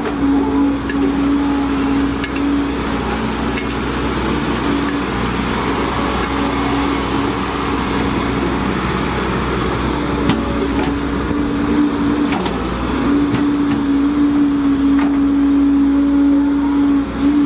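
Volvo EC210DL excavator working: its diesel engine and hydraulics running with a strong steady drone that breaks off briefly about twelve seconds in and then returns, with occasional short knocks.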